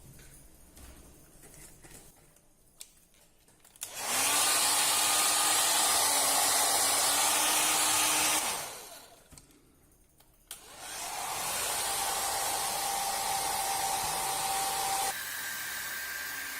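Electric hot air blower running in two stretches of several seconds each, a loud even rush of air with a faint steady motor whine, starting abruptly and dying away. The second run is a little quieter and drops in level again near the end.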